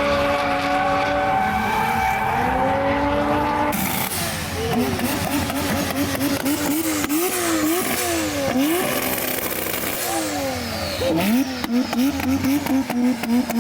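Drift car engine at high revs, first held fairly steady, then revving up and down in quick repeated swings as the throttle is worked through a slide. A rapid run of sharp cracks comes near the end.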